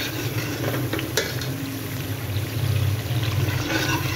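Fried onion-tomato masala sizzling in oil in a steel pan while a spatula stirs it, with a couple of knocks of the spatula against the pan about a second in. The oil has separated and risen on top, the sign that the masala is fully fried. A low steady hum runs underneath.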